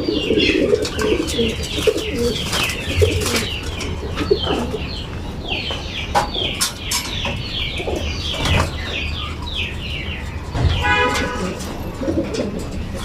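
Racing pigeons cooing in the loft, with many quick high chirps from birds all through and a few scattered knocks and rustles.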